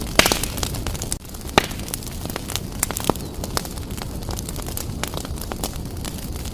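Wood fire burning briskly in a fireplace: a steady low rumble of flames with constant sharp crackles and pops from the burning wood, a few louder pops in the first half.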